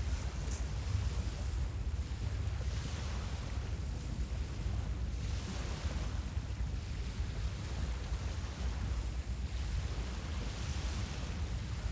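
Wind buffeting a phone microphone outdoors by open water: a strong, fluttering low rumble, with a hiss that swells every few seconds.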